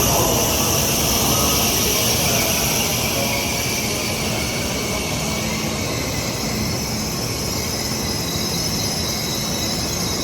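Shinkansen bullet train moving along the platform: a steady rumble under a loud high-pitched hiss and whine that slowly eases and fades near the end.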